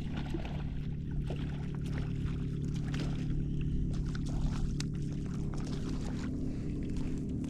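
A boat motor running at a steady pitch, with small water splashes and ticks over it.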